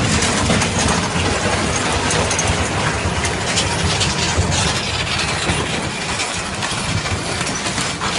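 A heavy vehicle running steadily, a loud continuous noise with much rattling and clattering.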